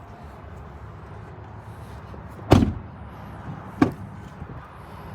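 A pickup truck door slams shut with a solid thud about halfway through. About a second later comes a sharp click from a door latch or handle.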